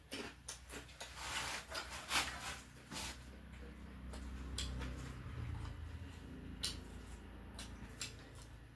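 Close-miked eating: a person chewing, with a cluster of sharp clicks and crackles in the first three seconds, then softer chewing with a few scattered clicks.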